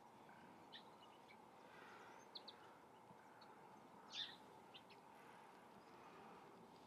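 Faint background with a few short, high bird chirps, including a quick double chirp about two and a half seconds in and the clearest chirp just after four seconds.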